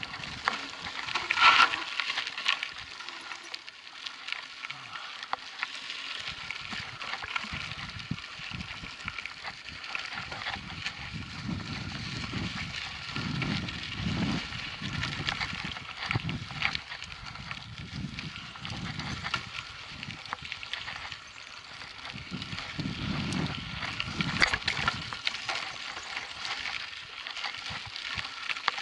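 Mountain bike rolling over a dirt track: steady crackling tyre noise with irregular gusts of wind rumble on the microphone, and a brief high-pitched squeak about a second and a half in.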